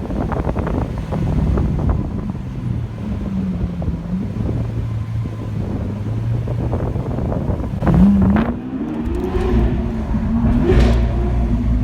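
Lamborghini Aventador's V12 engine running at low revs, with the revs rising sharply about eight seconds in and again near eleven seconds.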